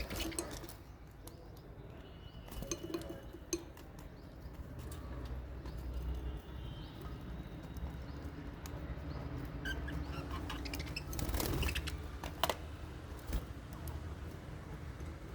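Small pet parrots in an aviary: a few brief high chirps and scattered light clicks and scratches of movement over a steady low rumble.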